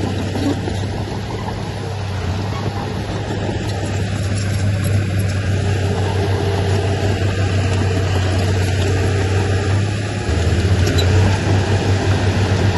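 Diesel engine of heavy earthmoving machinery running with a steady low drone; about ten seconds in it grows louder with a quick pulsing beat.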